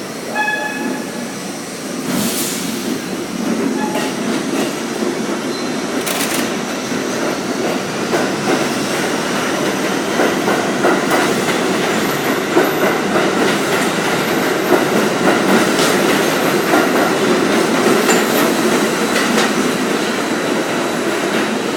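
Budd-built R32 subway train pulling out of the station: a short tone near the start and a couple of sharp bursts, then the rumble grows louder as it picks up speed, with wheels clacking over rail joints and some wheel squeal.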